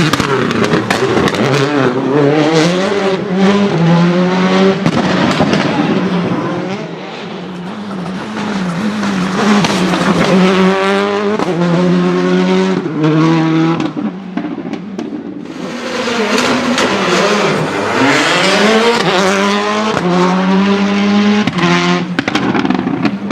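Citroën Xsara WRC rally car's turbocharged four-cylinder engine driven hard, its note climbing in pitch again and again through the gear changes, with sharp anti-lag pops and crackles between shifts.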